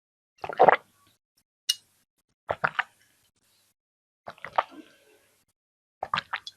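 Close-miked sips and swallows of water, in separate bursts about every one and a half to two seconds, each a quick cluster of wet mouth pops, with a single sharp click near the second mark.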